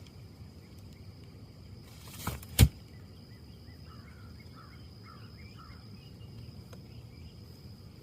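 Outdoor ambience of wind in trees: a steady low rumble with a thin, steady high-pitched tone above it. About two and a half seconds in there is a short rustle and then one loud sharp knock, and a few small bird chirps follow about four to five seconds in.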